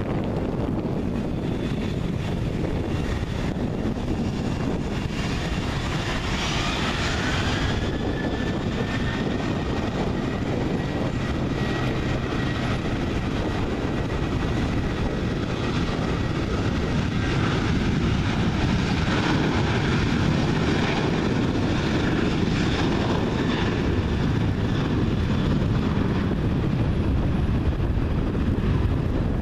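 Boeing 737-700 jet engines running, a deep rumble with a whine that rises in pitch about six seconds in and then holds steady for about ten seconds; the jet noise grows slightly louder in the second half.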